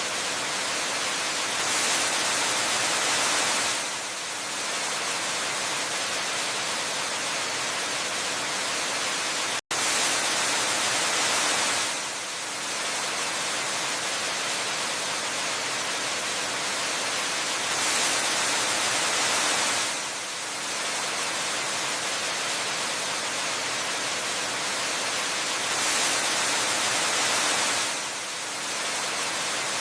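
Waterfall ambience: a steady hiss of falling water that swells louder about every eight seconds, with a split-second dropout about ten seconds in.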